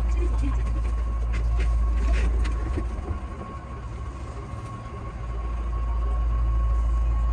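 Keihan 8000 series electric train heard from the driver's cab as it moves off along the track: a low running rumble with a steady high tone, and a few sharp clicks in the first seconds as the wheels cross rail joints or points. The rumble eases in the middle and builds again near the end.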